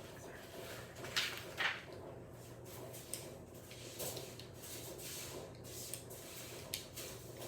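Plastic kit pieces being handled and pushed together: a few short sharp clicks and scrapes, the two loudest close together about a second in, over a steady low hum.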